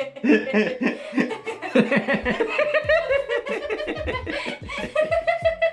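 A person laughing in a run of short chuckles, with a longer held note near the end.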